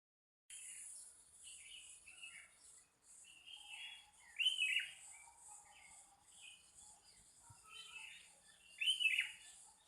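Several birds chirping and calling back and forth in the morning, with two louder sweeping calls about four and a half seconds in and near the end, over a steady high hiss.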